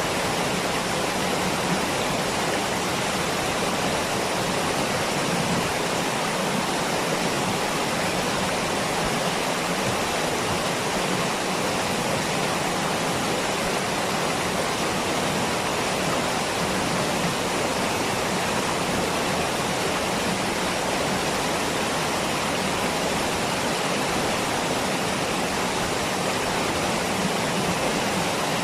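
Waterfall: water falling and rushing with a steady, unbroken hiss that does not change in level.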